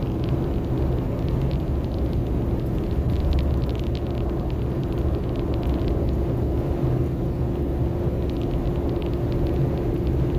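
Steady engine and road noise inside the cab of an old pickup truck on the move, with a constant hum and a few faint light rattles.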